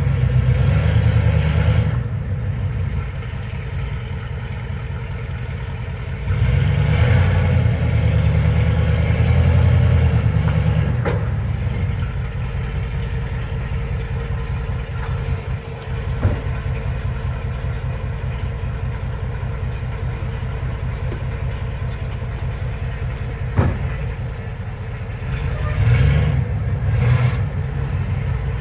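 A mud truck's engine running at a low idle, revved up in longer spells twice (about a quarter of the way in and near the end), with a few sharp knocks in between.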